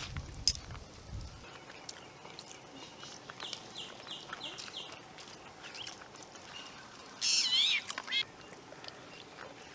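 Birds calling: a quick run of short, high chirps from about three to five seconds in, then a louder call that bends up and down in pitch around seven to eight seconds in. A sharp click about half a second in.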